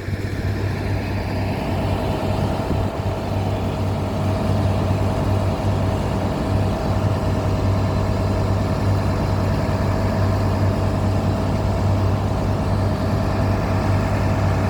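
Heavy engine running steadily under load, with a strong low hum and a steady midrange drone over an even rush of noise.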